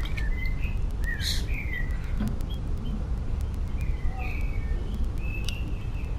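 Birds chirping: short call notes at intervals, over a steady low rumble.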